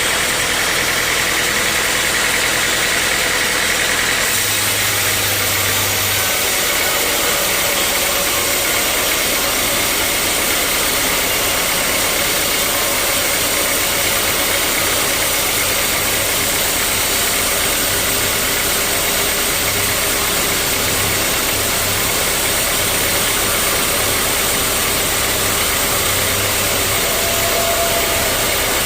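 Sawmill machinery running: a loud, steady engine-driven saw noise whose tone shifts about four seconds in.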